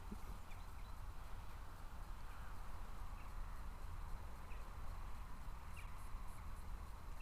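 Faint outdoor ambience: a steady low rumble of wind on the microphone, with a few short, faint high chirps scattered through.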